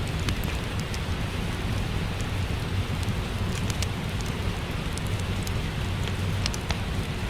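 Steady rain with a low rumble underneath, and scattered sharp crackles of a wood fire in a fireplace.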